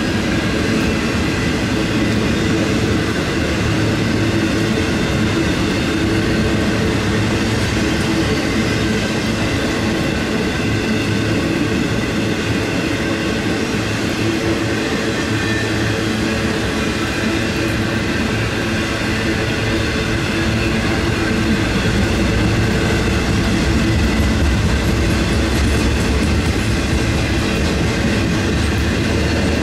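CSX intermodal freight train rolling past: steady wheel-on-rail noise with a constant mix of tones and no break.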